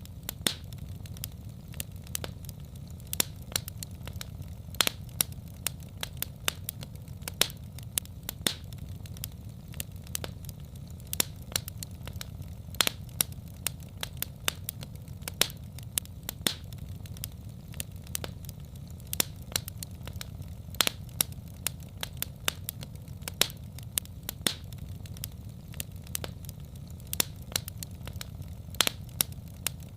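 Wood fire crackling in a fireplace: irregular sharp pops and snaps, several each second, over a steady low rumble of the flames.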